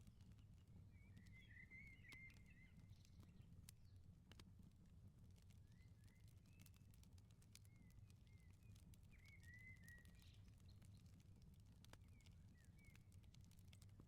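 Faint crackling of a wood fire, with scattered sharp pops over a steady low rumble, while a small bird chirps in short repeated bursts.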